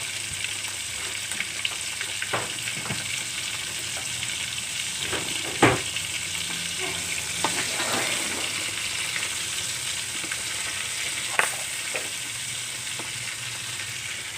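Food frying in a pan of oil with a steady sizzle, the oil not yet fully hot. A few sharp knocks of a cooking utensil against the pan, the loudest about five and a half seconds in.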